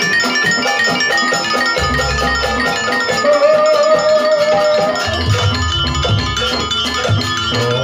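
Live campursari music: gamelan-style metallophones striking quick, repeated melodic notes, with a long held note in the middle, and low beats joining in about five seconds in.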